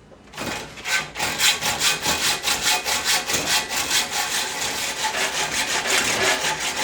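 Hacksaw cutting through spring steel by hand, in quick, steady back-and-forth strokes that start about half a second in.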